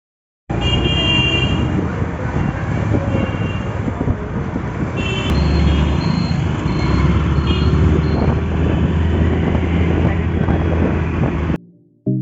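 Busy road traffic: engines running with the rumble of passing vehicles and several short horn honks. It starts suddenly and cuts off sharply near the end.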